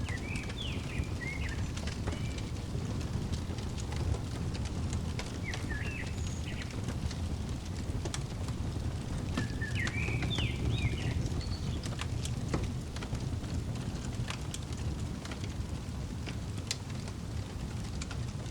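Fireplace crackling, with scattered sharp pops over a steady low rumble. A small bird chirps in short phrases near the start, about six seconds in, and again around ten seconds in.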